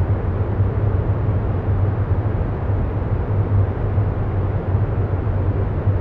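Steady low rumbling background noise with a low hum, unchanging throughout.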